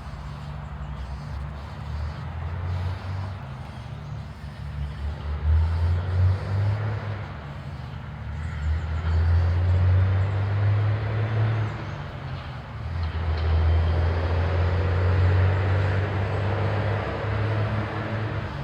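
Low rumble of passing road traffic, swelling and fading several times.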